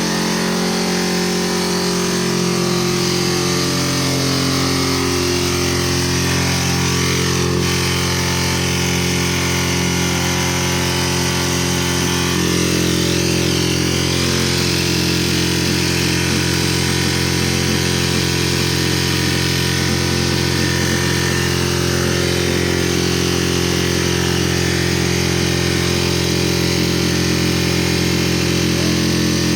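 Piaggio diesel engine running away, racing on by itself at a steady high speed. Its pitch shifts over the first few seconds, then holds steady.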